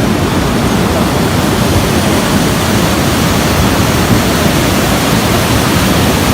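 Floodwater rushing, a loud, steady wash of noise with no breaks.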